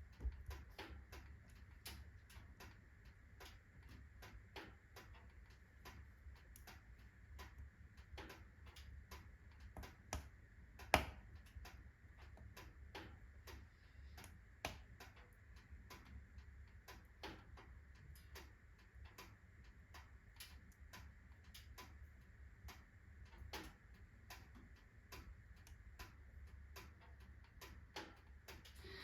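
Wood fire of alder, birch and oak logs crackling in a fireplace: a steady run of small irregular ticks and pops, with one sharp loud crack about eleven seconds in.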